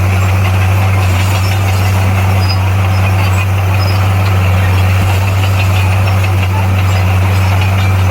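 Komatsu bulldozer's diesel engine running at a steady speed, a constant low hum with no revving.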